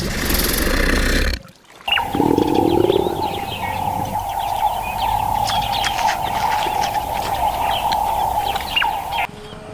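A short stretch of rough animal noise that cuts off abruptly. After the cut comes a long stretch of many short, scattered bird-like chirps over a steady hum, ending in another sudden cut.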